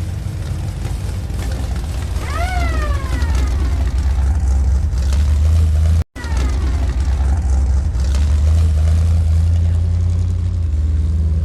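A vehicle engine rumbling steadily at low revs. A high tone falls in pitch about two seconds in and again briefly near the middle, right after a momentary cut in the sound.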